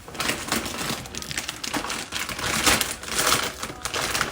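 Paper sandwich wrapper crinkling and rustling close to the microphone, in a dense irregular crackle that starts abruptly.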